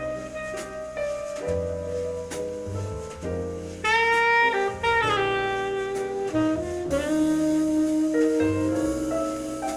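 Jazz played from a vinyl record on a turntable: a saxophone carries the melody, with a loud sliding phrase about four seconds in, over a walking double-bass line.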